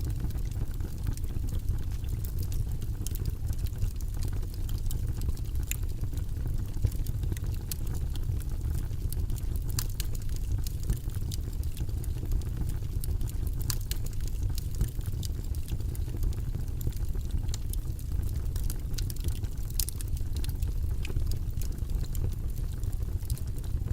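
Steady, deep white noise, a rumbling hiss that does not change, with scattered faint clicks over it.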